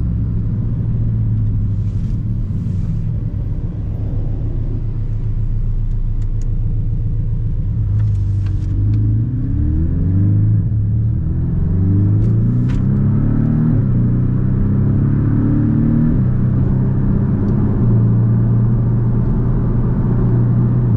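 2018 Porsche Cayman 718's engine running steadily, then accelerating through the gears about halfway in, its pitch climbing and dropping back at each of several upshifts, before settling to a steady cruise.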